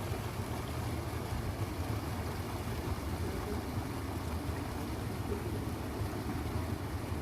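Steady rush of flowing water with a low rumble underneath, even throughout.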